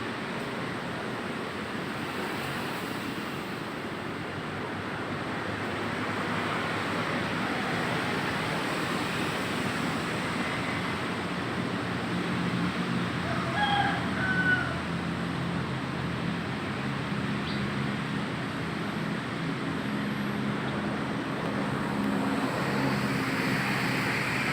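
Outdoor traffic ambience with a steady vehicle engine hum that grows stronger about halfway through, and one short pitched bird call about fourteen seconds in.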